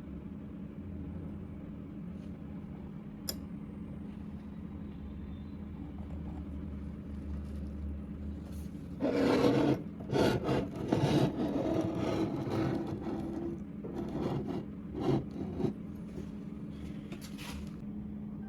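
A steady low hum, joined about nine seconds in by loud, irregular scraping and rubbing of metal that lasts several seconds before it settles back to the hum.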